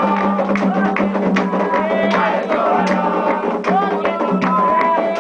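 Afro-Brazilian religious ritual music: voices singing a chant over a dense, fast rhythm of hand drums and struck percussion.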